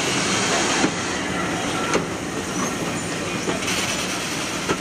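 Railway passenger coaches rolling slowly past: a steady rumble of wheels on the rails, with a few sharp clicks as wheels cross rail joints.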